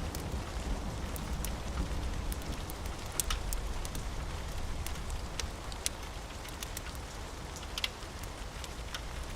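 Steady rain with a low rumble underneath, and a wood fire's crackles and sharp pops scattered through it, the loudest about three, six and eight seconds in.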